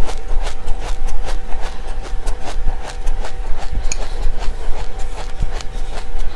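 Crunchy seeds being chewed close to the microphone: a run of crisp cracks, about three a second, over a steady low hum.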